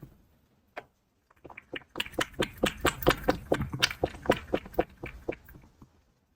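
A cat making quick, close, rhythmic wet mouth sounds, about four to five a second. They follow a few scattered clicks and start about two seconds in, then stop shortly before the end.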